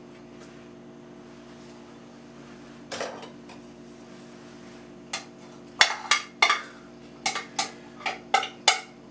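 A metal utensil knocking against a dish while food is mixed or crushed: a single knock about three seconds in, then from about halfway a quick series of sharp clacks, about three a second.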